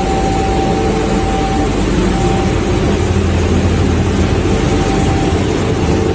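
Loud, steady industrial machinery noise, a dense rushing din with a steady whine and a low hum running under it.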